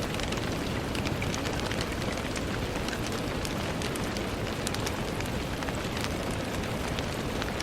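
Steady rain with many fine drops ticking against a window pane over an even hiss.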